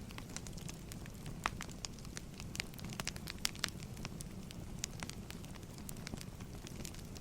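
Crackling wood fire: burning logs give off irregular sharp pops and snaps, several a second, over a steady low rumble.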